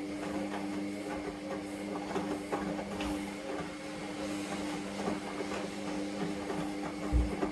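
Hoover Vision Dynamic front-loading washing machine running a wash: a steady motor hum under the irregular knocking and swishing of the tumbling load, with one low thump near the end.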